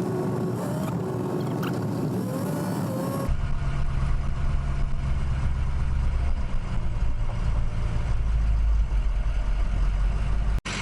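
Vehicle engine and road noise while driving, first a steady hum with a held tone, then after a cut about three seconds in a louder, deep low rumble.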